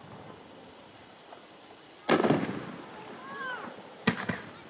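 Distant 3-inch aerial fireworks shells from a 9-shot cake bursting: a loud boom with a long rumbling tail about two seconds in, then a sharper bang with a few smaller cracks about four seconds in. Faint spectator voices between the bursts.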